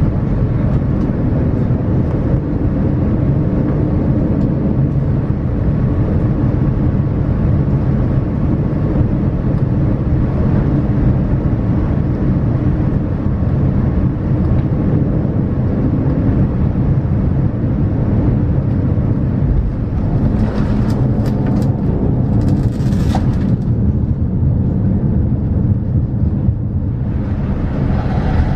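Steady low rumble inside the cabin of a Boeing 787-9 around its landing, with a cluster of knocks and rattles about 20 seconds in.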